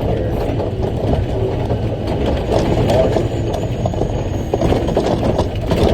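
Big rock truck's diesel engine running steadily with a low hum, over constant rattling and scattered knocks from the truck body.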